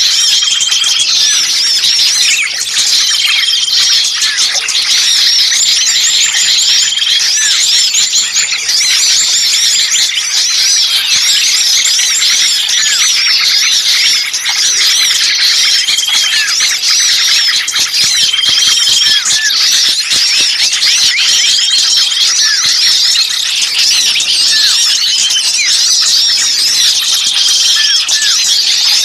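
A bird-lure recording of many small songbirds calling noisily at once in agitation: a dense mass of high chirps, squeaks and squeals. A short, level whistled note comes back every few seconds.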